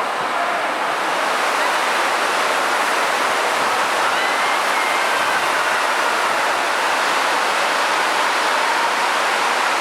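Torrential artificial rain from a large-scale rainfall simulator, a steady, dense rushing downpour.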